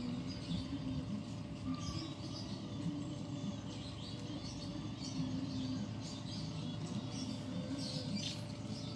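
Small birds chirping in short, scattered calls, over a steady low background murmur.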